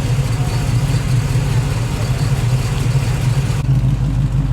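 A car engine idling close by, with a steady, pulsing low note. About three and a half seconds in the sound changes abruptly: it becomes deeper, with less hiss.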